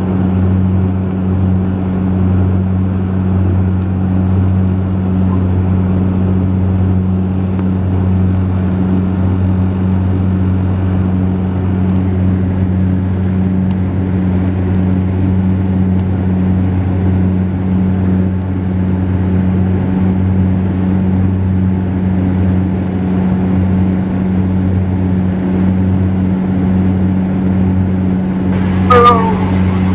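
Cabin drone of a Saab 340B's twin turboprops: a steady, unbroken low propeller hum with a strong low tone and its octave above, over a rushing hiss.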